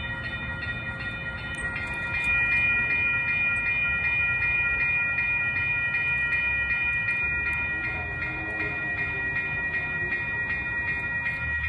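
Railroad crossing warning bell ringing in a steady, rapid rhythm over the low rumble of a passing train.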